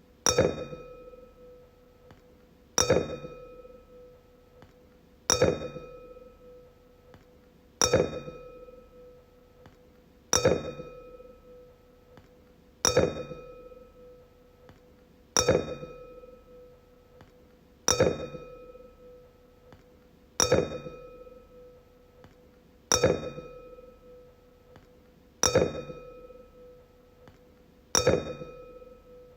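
Wine glass struck and left to ring, over and over: a sharp clink about every two and a half seconds, each followed by a clear, steady ringing tone with a few higher overtones that fades away before the next strike.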